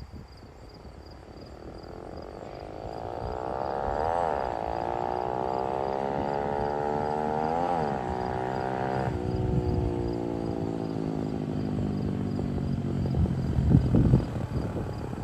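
Dirt bike with a 140 cc engine accelerating and shifting up through the gears: the revs climb, drop sharply at a gear change about four seconds in and again about eight seconds in, then fall once more just after nine seconds. There is a louder burst near the end.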